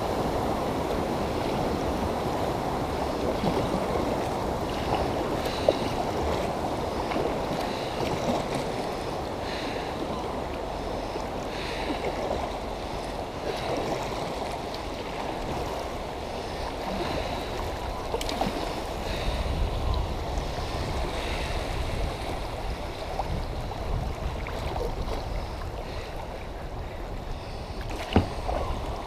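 Creek water rushing steadily around a kayak as it moves downstream, with a sharp knock about six seconds in and another near the end.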